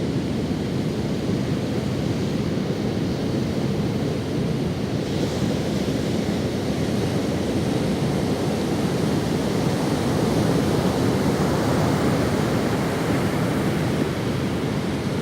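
Ocean waves washing up on a sandy beach, a steady surf wash that swells a little near the end.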